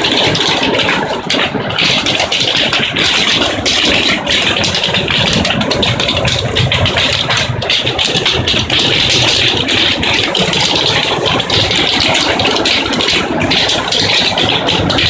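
Hailstones pelting down in a heavy hailstorm: a loud, unbroken clatter of countless rapid impacts.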